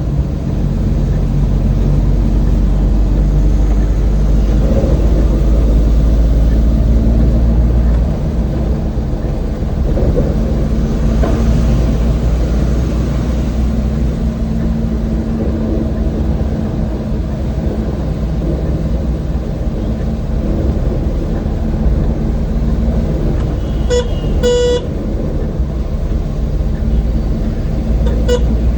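Old van's engine running steadily with road rumble as it drives. A horn gives two short toots about three-quarters of the way through and one more brief toot near the end.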